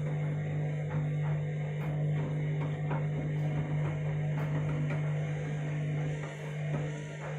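Candy washing machine's motor turning the drum with a steady hum while the heavy, unbalanced load of a towelling robe knocks irregularly, as the machine tries to balance the load for spin.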